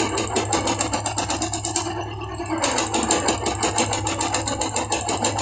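Royal Enfield Classic 350 single-cylinder engine running with a rapid, even ticking knock. The level dips briefly about two seconds in. The mechanic traces the knock to the crankshaft / connecting-rod bearing.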